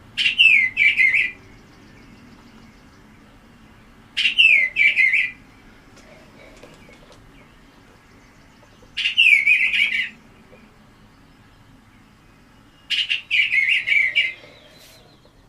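Eastern bluebird song: four short, soft warbled phrases, each about a second long, with a few seconds' pause between them.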